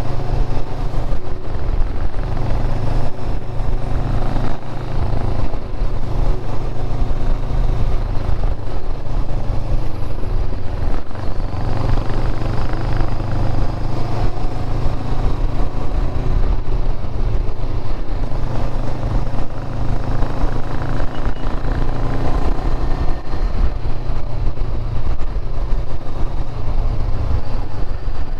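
Motorcycle being ridden at a steady pace: the engine runs continuously under a constant low rumble, with small changes in throttle.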